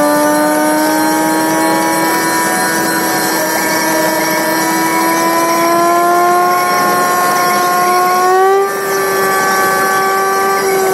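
Toyota's engine and drivetrain running, sped up by the timelapse into a steady high-pitched whine that rises slowly in pitch, with a brief surge and drop about eight and a half seconds in.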